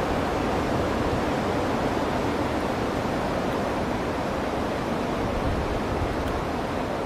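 Strong wind rushing steadily through the forest trees, with wind buffeting the microphone.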